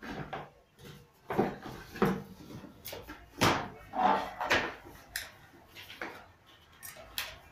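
Irregular knocks and clunks of vacuum cleaner parts being handled, as a replacement motor is fitted into the housing by hand.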